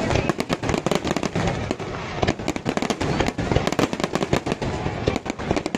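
Fireworks display: a dense, continuous barrage of bangs and crackles, several every second.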